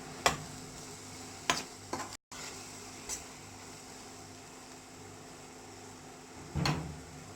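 Kitchen utensil knocking against a cooking pot: a few sharp clacks in the first three seconds and a heavier clatter near the end, over a steady low hum.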